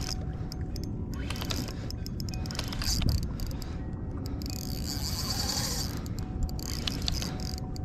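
Fishing reel's drag buzzing in a fast run of clicks for about a second, about five seconds in, as a small striped bass pulls line, among scattered clicks and knocks of rod and kayak handling.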